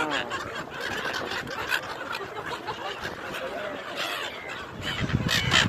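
A flock of birds calling, with many short overlapping calls. Near the end a louder low rushing noise comes in.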